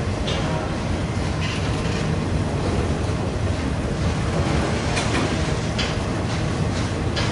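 Freight train rolling past with a steady rumble, its wheels clicking sharply over the rail joints every second or few.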